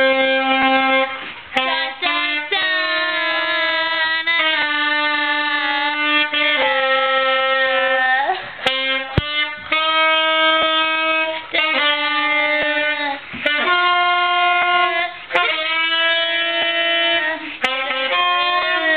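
Music: a single melodic instrument playing a slow line of long held notes, one at a time, with short breaks and slight bends in pitch between them. A few sharp clicks are heard along the way.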